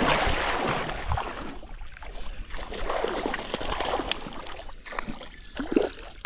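Water splashing and sloshing as a hooked bass thrashes and is brought in through shallow river water. There are several splashes, loudest at the start, with another sharp splash near the end.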